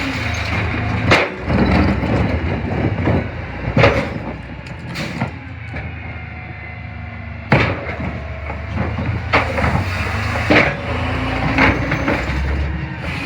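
CNG-powered McNeilus rear-loader garbage truck on a Freightliner chassis running, with about a dozen sharp, irregular clanks and knocks over its steady engine hum.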